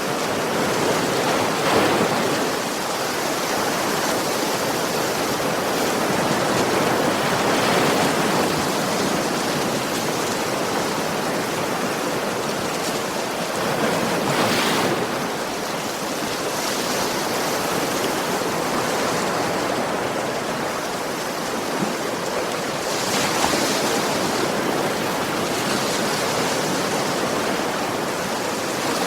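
Ocean waves washing onto a beach at night, a continuous surf with several waves breaking and swelling, about every few seconds.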